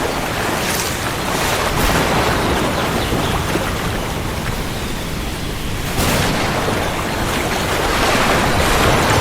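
Heavy rain falling steadily, a little louder from about six seconds in.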